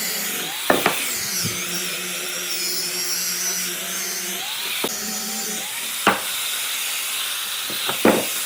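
High-speed power tool running with a shrill whine whose pitch wavers as it is worked against wood, with a few sharp knocks.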